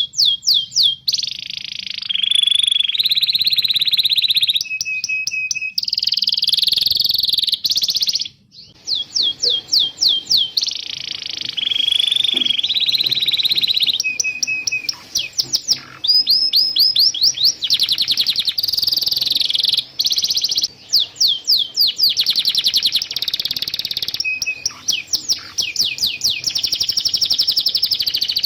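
Domestic canary singing a continuous song: fast runs of repeated sweeping chirps alternate with dense rolling trills, with a brief pause about eight seconds in.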